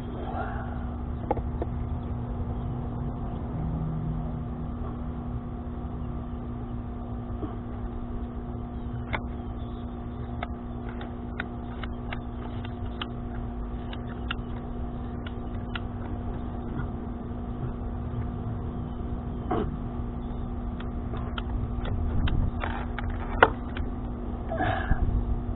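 PVC pipe being cut with a ratcheting pipe cutter: a run of sharp, irregular clicks in the middle as the blade is worked through the pipe, squeezing it out of round. A steady low hum runs underneath throughout, with a few knocks near the end.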